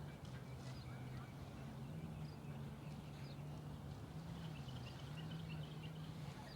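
Outdoor ambience: faint, scattered bird chirps over a steady low hum whose pitch shifts slightly now and then.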